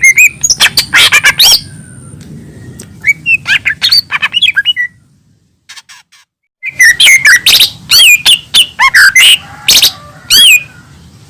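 Cucak ijo mini (small leafbird) singing loud, rapid, varied phrases of sweeping whistles and chattering notes. Its song breaks off for a moment midway before a dense burst resumes.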